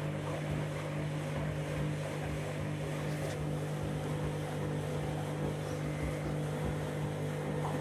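Candy washing machine running, its motor giving a steady, unchanging hum with a rushing noise over it as the drum turns.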